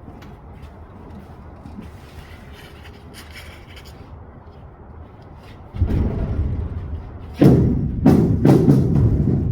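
Heavy hollow thuds and bangs of big-rig truck tires being handled and dropped into a trailer: a deep thud about six seconds in, then a quick run of louder knocks near the end.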